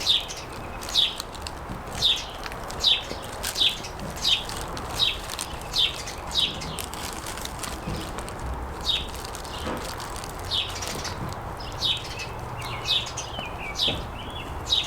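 A bird calling outdoors, a short downward-sliding chirp repeated about once a second, over faint background hiss.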